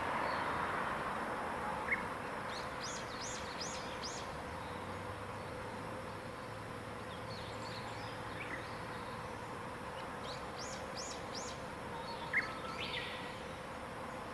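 Wild birdsong: a songbird repeats a short phrase of quick, high, falling notes four times, over a steady faint hum and insect buzzing, with a couple of short single chirps from another bird.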